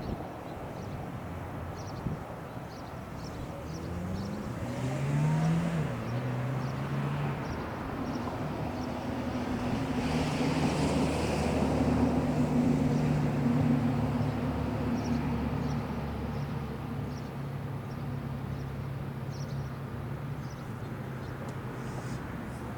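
A motor vehicle engine whose pitch rises about five seconds in, then runs steadily, loudest around the middle before fading.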